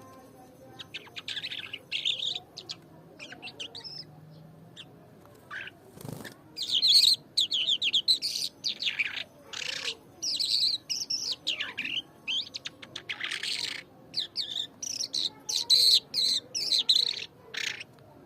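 A songbird singing, a string of short, rapid chirping phrases. It starts sparse and quiet and becomes louder and busier about six seconds in.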